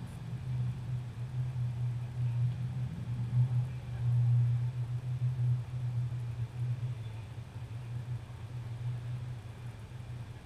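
Race car's engine idling while the car sits still, a steady low rumble that swells a little about four seconds in and then eases.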